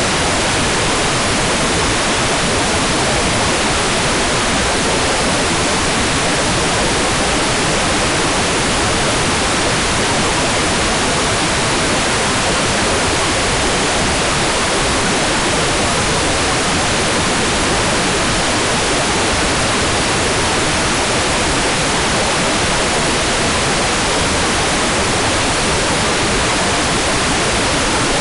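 Hair dryer blowing continuously: a steady, even rushing hiss that does not change.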